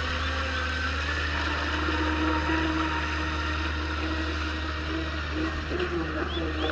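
A radio-controlled surfboard's 2000 kV brushless electric motor driving its propeller, a steady run whose pitch steps up slightly about a second in and wavers near the end.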